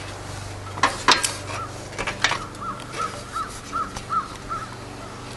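A bird calling over and over in short, even, rising-and-falling notes, about three a second, with a few sharp knocks about a second in.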